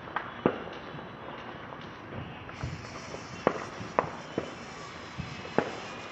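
Fireworks going off as a string of sharp, separate pops: about five loud cracks at uneven intervals, with a few fainter ones between them.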